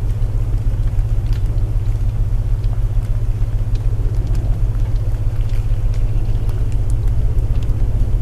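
Layered sleep soundscape: a steady deep binaural-tone drone under the hiss of rain, with the scattered small crackles of burning wood in a fireplace.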